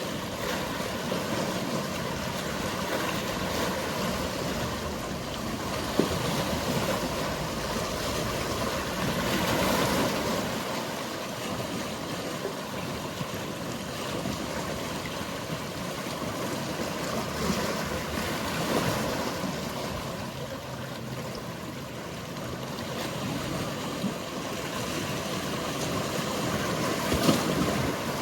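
Sea waves washing, the wash swelling and easing about every eight or nine seconds, over a faint steady hum of distant boat engines. A sharp knock is heard once early on and again near the end.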